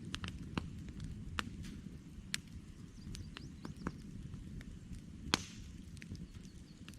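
Wood campfire crackling: irregular sharp pops and snaps over a low, steady rumble, with one louder pop about five seconds in.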